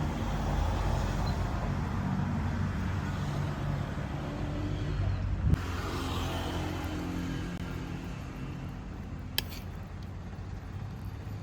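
Motor vehicle engines running in street traffic, a steady low hum, with a sharp click about five and a half seconds in and another near the end.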